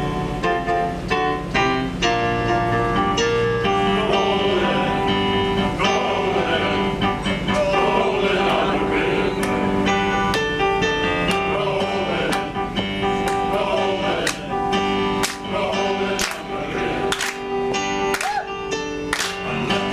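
Music: a guitar-led band playing an instrumental intro over a steady rhythm.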